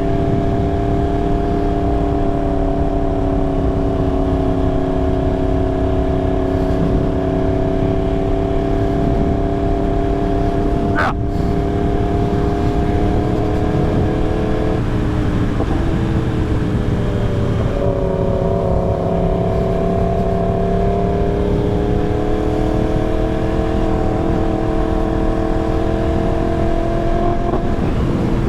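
Yamaha R1 inline-four with a full aftermarket exhaust running under way at a steady cruise. Its note holds level, drops about halfway through, then climbs back and holds again.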